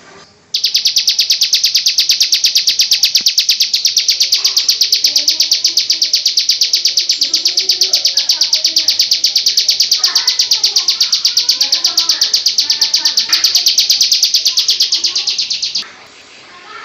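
A songbird's rapid, high trill: a loud, even run of quick notes held for about fifteen seconds, starting and stopping abruptly. Fainter chirps and children's voices sit behind it.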